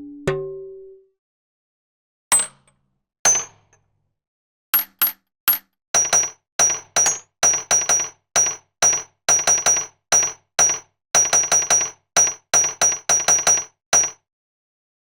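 Drum-kit one-shot samples played from a keyboard: a decaying pitched hit at the start, then a run of short metallic clinks, each with a high ringing tone, at about two to three a second in an uneven pattern.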